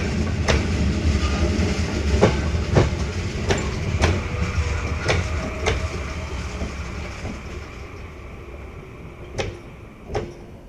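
Electric commuter train passing close by: a low rumble with its wheels clacking over rail joints in an uneven run of clicks. The sound fades away as the last car goes by about six seconds in, with two last clacks near the end.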